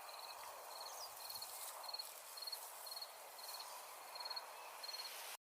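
An insect, cricket-like, chirping: short high-pitched trilled chirps repeated evenly, a little under two a second, over faint outdoor background noise.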